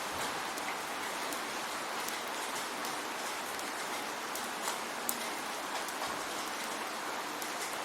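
Steady rain falling on a surface, with scattered individual drops ticking now and then, a couple of them a little louder about five seconds in.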